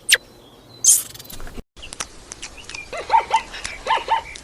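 Squirrel calling: a sharp chirp at the start, then after a short break a string of quick chirping calls over faint background noise.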